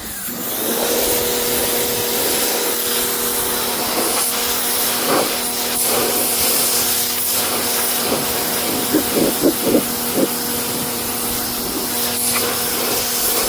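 Electric pressure washer running, spraying plain water into a car's carpet and seat fabric: a steady motor hum under the hiss of the spray, with a few quick surges a little past the middle.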